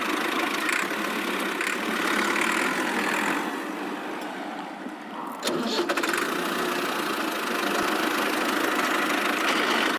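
Alligator vocalising: a long, rough, noisy rasping sound with no clear pitch. It eases off a few seconds in and picks up again with a few sharp clicks about halfway through.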